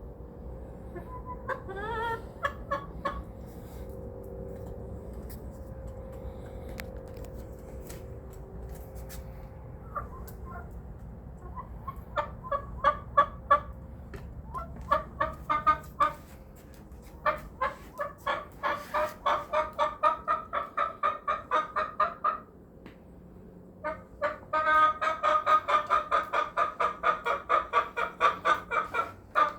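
Pet hen clucking: a short rising call early on, then long runs of quick clucks at about four a second in three bouts, the later ones louder.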